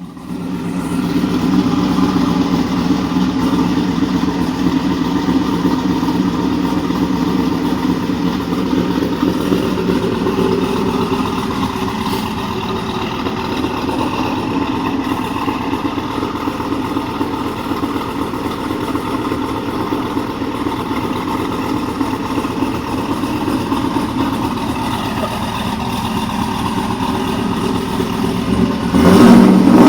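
1998 Pontiac Trans Am's LS1 V8, with a TSP 228R camshaft, ceramic-coated long-tube headers and aftermarket exhaust, idling steadily after a cold start. The idle eases slightly about twelve seconds in, and the engine gets louder just before the end.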